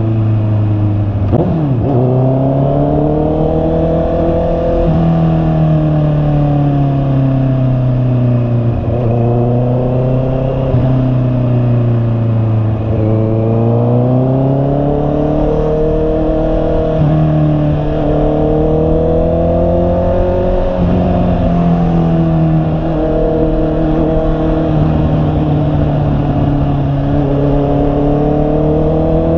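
Honda CB650R's inline-four engine running on the move, its pitch rising and falling several times as the throttle is opened and closed. About a second and a half in there is a quick sharp drop in pitch and a jump back up.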